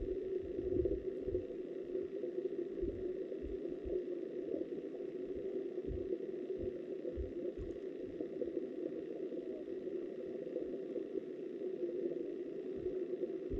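Muffled, steady rush of flowing river water heard by a submerged underwater camera, with irregular low knocks from the current buffeting the housing.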